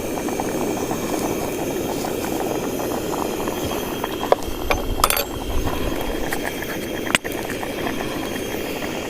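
Pot of pumpkin curry boiling: a steady bubbling rush, with a couple of sharp clinks, about five and about seven seconds in.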